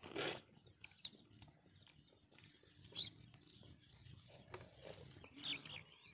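Quiet rural ambience with a few short, high bird chirps spread through it, and a brief noisy sound right at the start.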